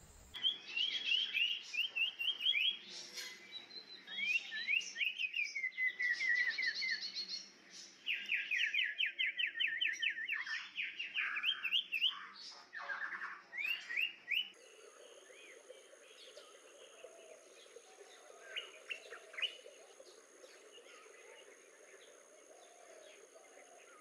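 Common iora singing: bursts of rapid, sharp repeated notes and fast trills, some runs falling in pitch. Just past halfway the sound changes suddenly to fainter, scattered calls over a steady high hum.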